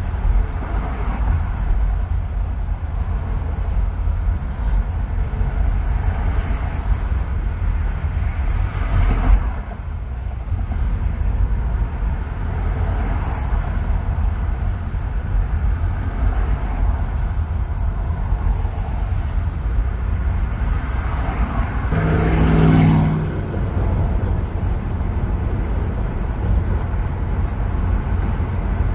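A car driving on a freeway, with a steady low rumble of road and engine noise. About nine seconds in the noise swells briefly. A louder swell with a humming engine tone comes about 22 seconds in, as a vehicle passes close by.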